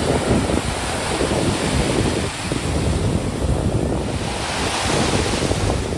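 Ocean surf washing onto a beach, with wind buffeting the microphone in a rough low rumble. A wave's hiss swells about four seconds in.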